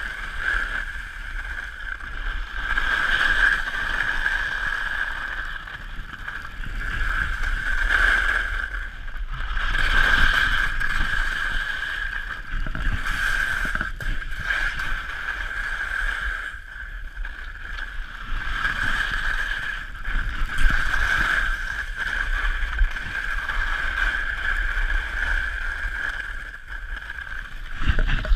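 Helicopter running: a steady high turbine whine over a low rumble, swelling and fading every few seconds.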